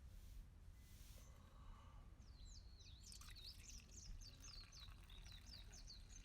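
A songbird singing faintly: a quick run of high, repeated chirping notes starting about two seconds in, over a low steady rumble.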